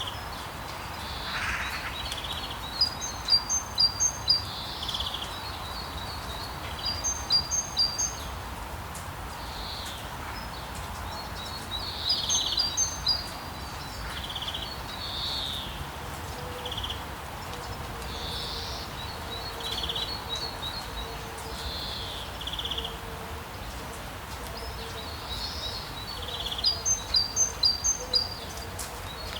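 Several birds chirping: one repeats quick series of high chirps every few seconds while others give single calls, over a steady hiss of rain.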